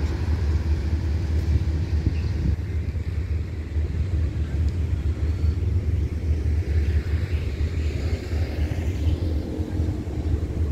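Steady low rumble of a passenger train standing at a station, with no sudden noises.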